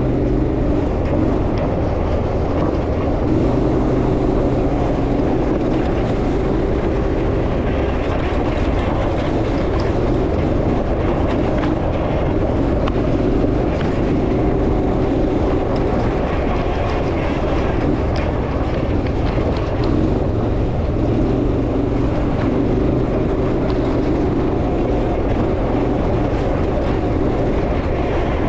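Off-road buggy engine running under load as the buggy drives its laps, the pitch rising and falling a little as it speeds up and slows down, with a steady rumble underneath.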